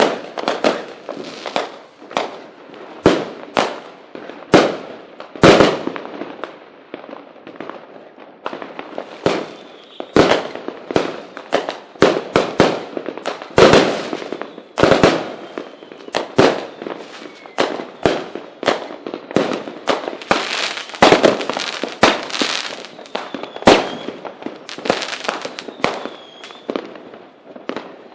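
Fireworks display: a continuous, irregular barrage of sharp bangs, some loud, with a thicker stretch of crackling about twenty seconds in.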